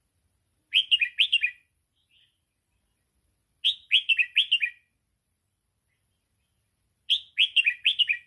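Red-whiskered bulbul singing three short phrases a few seconds apart, each a quick run of five or six falling notes. It is the 'sai boen' song line that Thai keepers play to train young bulbuls.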